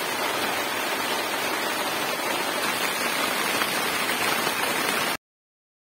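Heavy rain falling as a steady, dense hiss, cutting off abruptly about five seconds in.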